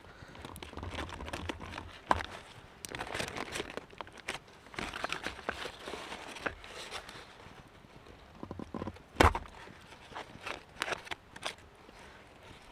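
Irregular rustling and crinkling handling noises with scattered short clicks, and one sharp knock about nine seconds in.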